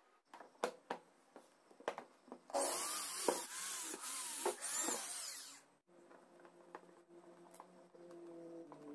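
A few clicks and knocks of handling, then a handheld power tool runs loudly for about three seconds with a wavering pitch and stops. A quieter steady motor hum follows.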